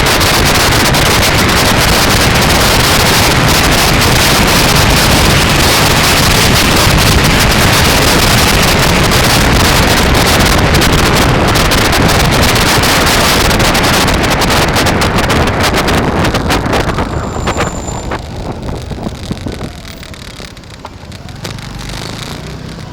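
Wind buffeting the microphone of a camera on a moving bike: a loud, crackly rushing that dies down about seventeen seconds in.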